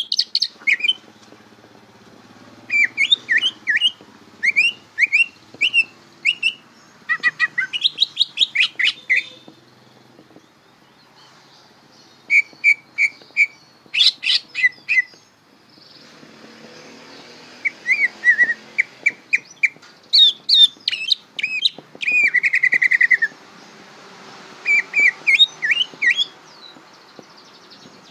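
Green leafbird (cucak ijo) singing in full 'bongkaran' song: a young bird still learning its song. It gives phrases of quick, sharp whistled notes that rise and fall, broken by short pauses.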